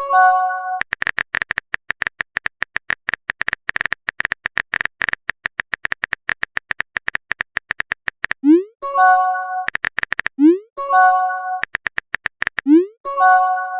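Phone-texting sound effects: a rapid run of keyboard typing clicks, broken four times by a message notification, a quick rising swoop into a short chime. One notification comes right at the start and three come close together near the end.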